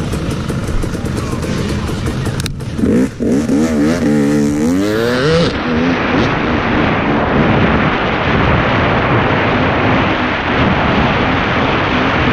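Dirt bike engines: a sharp knock about two and a half seconds in, then an engine revving up in rising pitch as the bikes launch, giving way to loud, steady engine and wind noise at full throttle.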